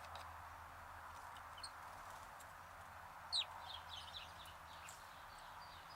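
Sparrows chirping: one loud chirp about halfway through, then a quick run of short chirps, over a faint steady outdoor hiss.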